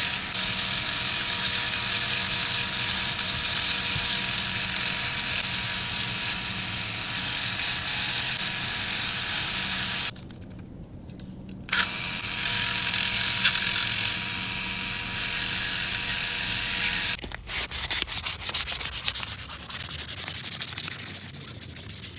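Power sander running against the work, a steady sanding hiss over the motor's hum. It stops for a moment about halfway through, then starts again. Near the end it turns into a quicker, uneven rubbing that fades.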